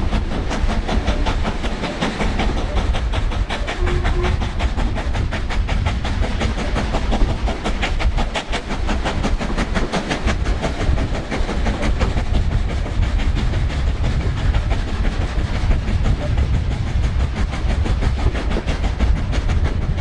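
LMS Black Five two-cylinder 4-6-0 steam locomotive working a train, with a rapid, even beat over the heavy rumble of the train running on the rails.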